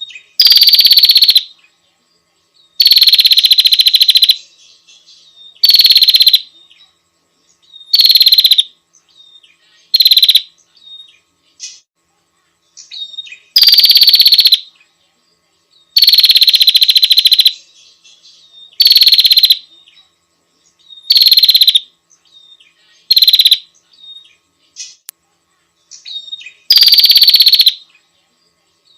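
Female prenjak (prinia) calling to a male: eleven loud, buzzy, rapidly pulsed calls, each half a second to about a second and a half long with a falling tone, repeated every two to three seconds, with soft chips in the gaps.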